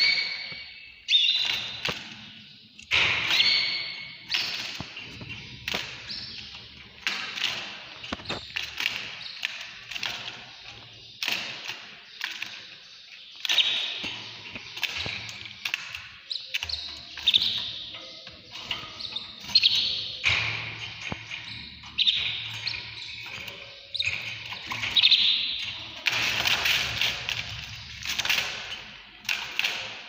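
Small caged birds chirping in short, repeated high calls, with frequent sharp taps and thumps throughout.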